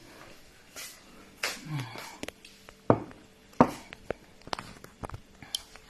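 Eating sounds: a string of irregular wet clicks and lip smacks while a meal of pounded yam and soup is eaten, with one short, low falling hum about two seconds in.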